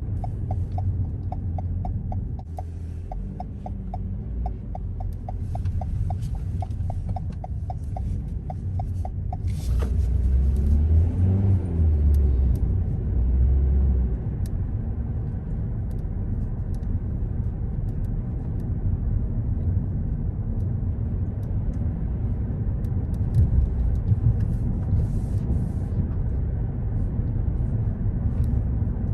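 Car driving with a steady low engine and road rumble. A turn-signal indicator ticks quickly and evenly for about the first third, then stops with a sharp click, and the rumble grows louder for a few seconds.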